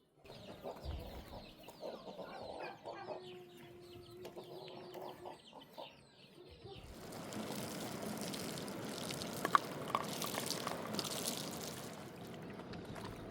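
Chickens clucking for about the first seven seconds, then a steady rushing noise with a few sharp clicks.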